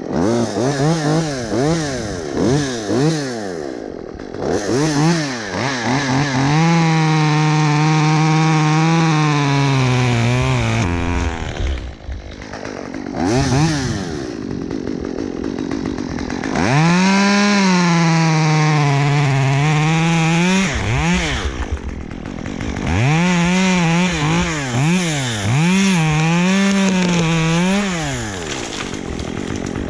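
Chainsaw revving in quick throttle blips, then held at high speed through three long stretches of cutting, each several seconds, as a tree limb is cut free.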